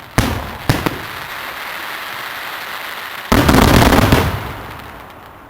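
Fireworks exploding: two sharp bangs at the start, then about three seconds in a loud, dense burst of rapid bangs lasting about a second, which then dies away.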